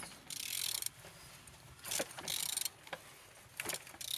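Ratchet wrench clicking in about five short spells as the crankshaft of an EP6CDT 1.6 THP petrol engine is turned over by hand. The engine turns freely, a sign that it is not seized.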